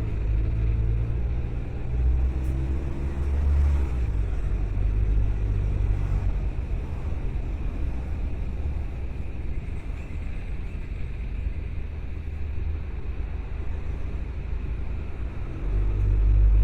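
Car being driven, with a steady low rumble of engine and road noise. The engine note is stronger in the first few seconds and again near the end.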